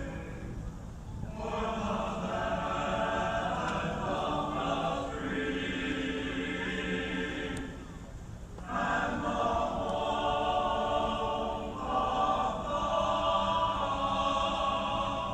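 Choir singing in long held phrases, with short breaks about a second in and about eight seconds in.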